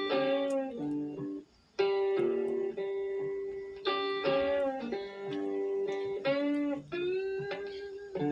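Music: a guitar playing sustained notes with bends, with a brief pause about a second and a half in.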